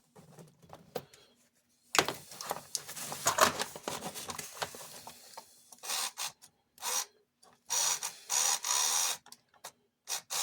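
Plastic toy parts handled with clicks and rustling, then the toy robot's small electric motor and plastic gears running in several short bursts that start and stop abruptly as it is switched on and off. The toy has a faulty switch, and the motor has just been oiled.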